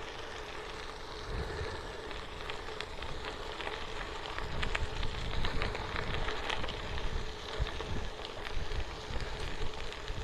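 Bicycle riding along a railway-bed trail: tyres rolling with scattered small ticks and crackles from the trail surface, and wind rumbling on the microphone, a little louder from about four seconds in.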